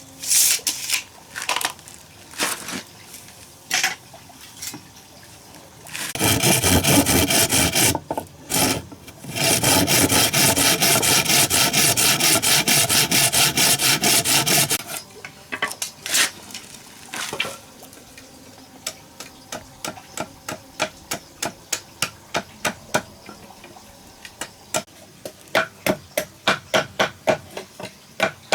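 Woodworking on the cabin: a few scattered knocks, then two long stretches of loud, even scraping, as of a tool cutting or rasping wood. Then a steady run of light taps, about two or three a second, getting louder near the end.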